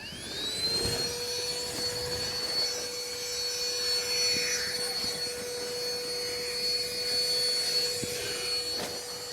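A small electric motor spinning up, its whine rising in pitch quickly at the start, then running steadily with a constant hum and a high whine over a whirring hiss.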